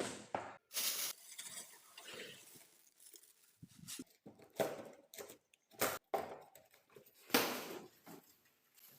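Irregular handling noises of packaging being opened: scattered knocks, scrapes and rustles of cardboard and plastic, with short pauses between them.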